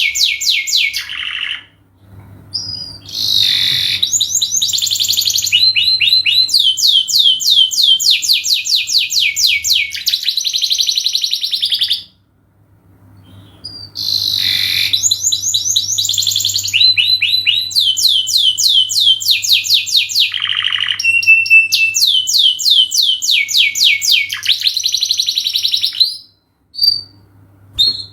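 Domestic canary singing long, loud song phrases of fast repeated notes and rolling trills, in two runs of about ten seconds each with brief pauses between, over a faint low hum.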